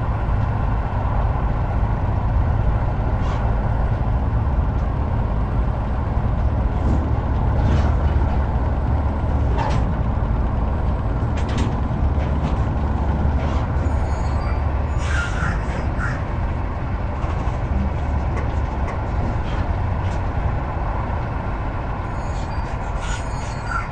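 Heavy truck driving at steady speed: a constant low engine and road rumble, with a few short high clicks and chirps in the second half.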